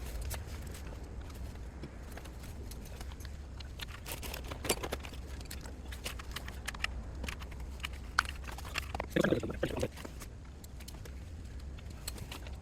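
Scattered light clicks and taps of hand work on car parts over a steady low hum, with a brief mumbled voice about nine seconds in.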